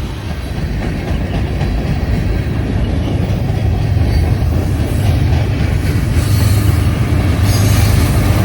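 A train running past on the rails: a steady low rumble of wheels and cars that grows slowly louder.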